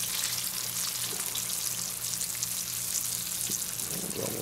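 Breaded jackfruit pieces shallow-frying in oil: a steady sizzle with fine crackling.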